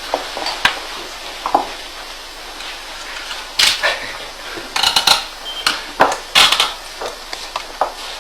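Irregular clicks, knocks and light clattering as the magnet machine is handled to start it. There are louder scraping bursts about three and a half, five and six and a half seconds in.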